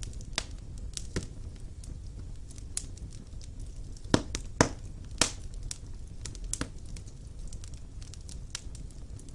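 Wood fire burning in a stone fireplace: a low steady rumble of flames with irregular crackles and sharp pops of burning wood, the loudest pops clustered around the middle.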